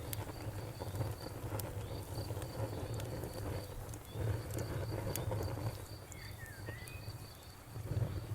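Bonfire crackling, with sharp pops and snaps over a low steady rumble, while a cricket chirps in an even pulse of about three chirps a second. A few brief high gliding calls come about six and a half seconds in.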